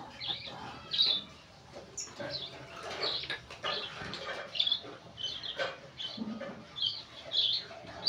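Small caged bird chirping: short, high chirps repeated every half second or so at irregular spacing, with a few soft clicks in between.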